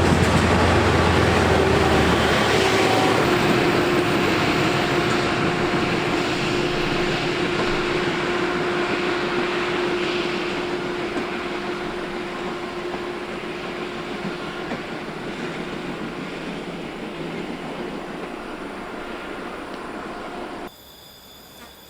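Train running, its noise fading slowly over about twenty seconds, with a steady hum running through it and a deeper hum in the first couple of seconds. The sound drops off suddenly near the end.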